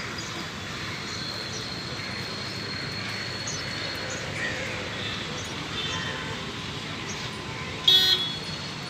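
Steady street traffic noise, with one short vehicle horn honk near the end.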